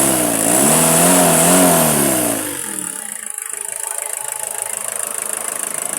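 Toyota 5L four-cylinder diesel engine revved briefly, its pitch rising and falling for about two and a half seconds, then dropping back to a steady idle.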